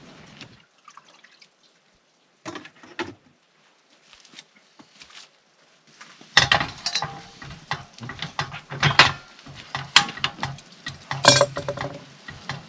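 Cutlery and dishes clattering: sharp irregular knocks and clinks that start about six seconds in, after a nearly quiet stretch with a couple of faint knocks.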